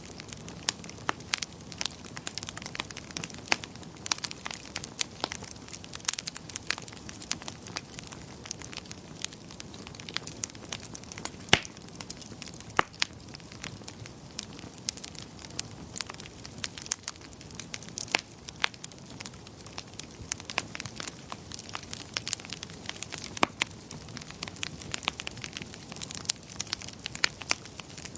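Wood fire crackling in a fireplace: irregular sharp snaps and pops over a soft steady hiss, with one louder pop about halfway through.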